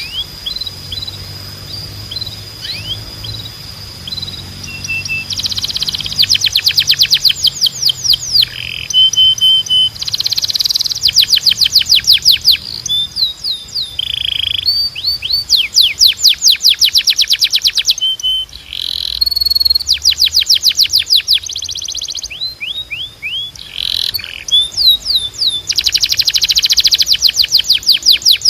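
Timbrado canary singing: fast trills of repeated downward-sweeping notes in phrases of a second or two, broken by short held whistles. Sparse chirps open it, and the full trilled song comes in about five seconds in.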